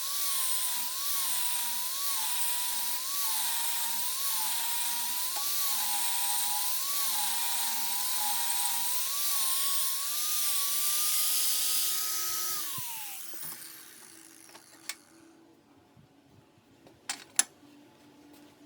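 Electric grinder working on steel: a loud hissing grind with a motor whine that sags in pitch about once a second under pressure. It then runs free briefly, is switched off and spins down about 13 s in, followed by a few sharp knocks.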